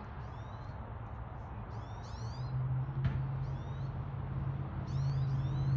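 Small birds chirping in groups of short, quick falling notes every second or two, over a steady low hum that grows louder about two seconds in. A single sharp click comes near the middle.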